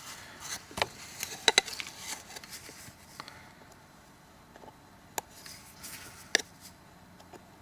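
Scattered light clicks and taps of small phone parts being handled as a Samsung Galaxy S3's home button is taken off the screen assembly, a few sharp ticks a second or more apart.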